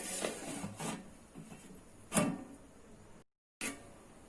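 Cookware being handled on a stove: light rubbing and scraping with a few short knocks, the loudest about two seconds in. Near the end the sound drops out completely for a moment at an edit.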